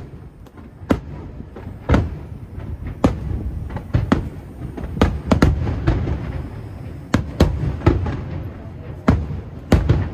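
Aerial firework shells bursting overhead: a string of sharp booms at irregular intervals, roughly one a second, each followed by a low rumble.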